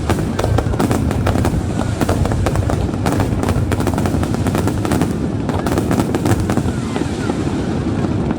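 Aerial fireworks going off in rapid, dense succession: a continuous crackle of many sharp bangs over a low rumble, thinning out near the end.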